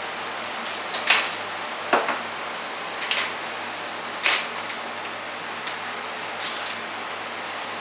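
Kitchen utensils and dishes clinking and knocking: about half a dozen separate clinks, the loudest about four seconds in.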